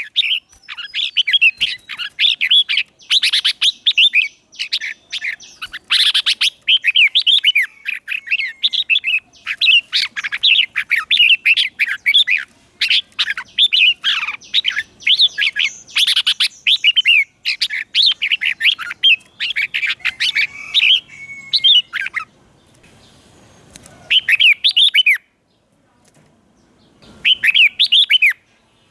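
Red-whiskered bulbul song: quick, bright warbled phrases one after another, breaking off about three quarters of the way in, with two short phrases after the pause.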